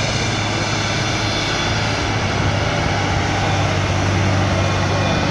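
Heavy off-road trial truck's engine running, a steady drone of nearly constant pitch.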